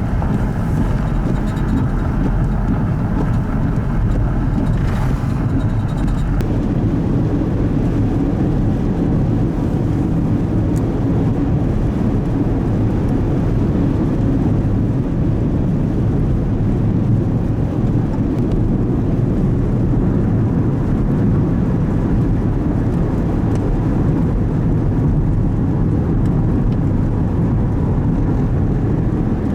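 Steady low rumble of blizzard wind and vehicle noise, with some higher-pitched hiss dropping away about six seconds in.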